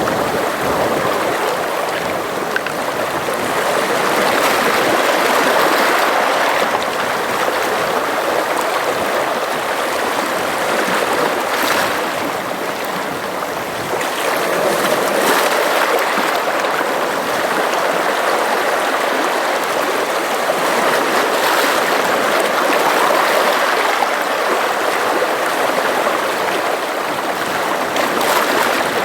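Sea water lapping and washing in a steady rush that swells and eases every several seconds.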